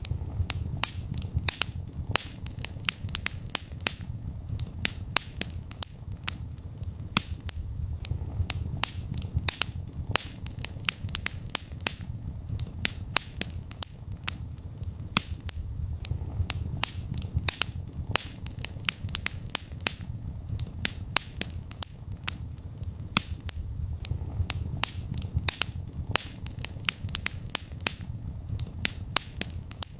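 Wood fire burning in a fireplace, crackling and popping with many sharp irregular snaps over a steady low rumble of the flames.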